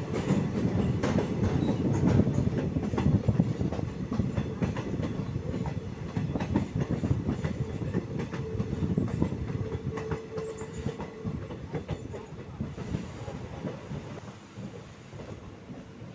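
ICF passenger coaches running over the rails on a curve, heard from an open coach doorway: a steady wheel rumble with clickety-clack over the rail joints. A faint squeal from the wheels joins for a few seconds past the middle, and the running grows quieter near the end.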